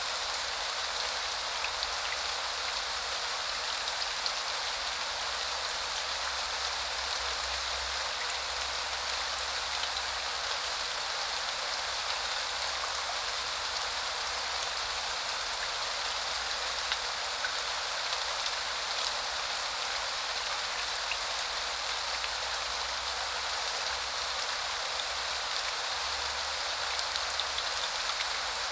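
Steady rain falling, an even hiss with the odd faint tick of a single drop.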